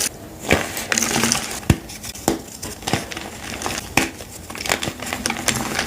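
Gym chalk being crushed: a continuous crunching, crumbling crackle broken by about four sharp cracks.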